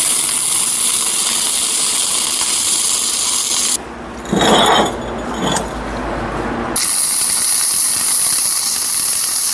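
Electric arc welding, laying a weld bead on a steel axe blade: a steady crackling hiss. It stops for about three seconds in the middle, with a short louder noise in the pause, then starts again.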